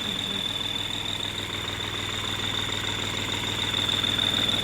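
Tractor diesel engine idling with a steady high-pitched whistle from the whistle fitted to its silencer sounding over the firing pulses. The sound grows a little louder near the end.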